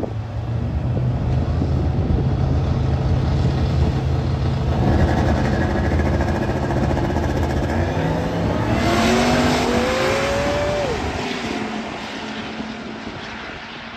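Two drag-race vehicles, one of them a supercharged Shelby F-150 pickup, run hard down the strip with loud engines. From about 8.5 to 11 seconds there is a rising whine, and then the sound fades as they pull away.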